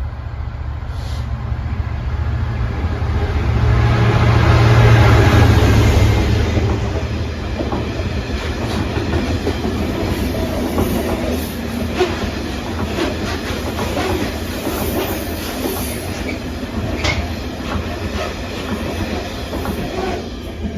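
Heavy diesel freight train passing: the locomotive's deep engine rumble swells and is loudest about five seconds in. A long string of wagons follows, rumbling steadily with a run of sharp wheel clicks over the rail joints.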